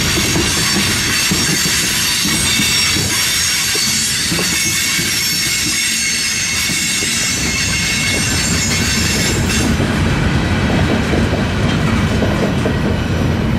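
Freight train cars rolling past with steady high-pitched wheel squeal over a continuous rumble of wheels on rail; the squeal dies away about ten seconds in while the rumble carries on.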